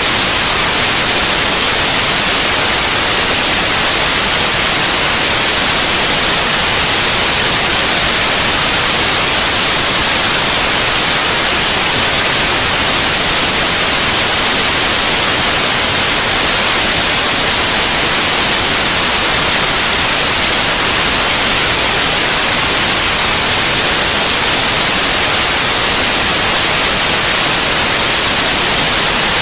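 Continuous white noise: a steady, loud, even hiss with no changes, played as a sleep aid for babies.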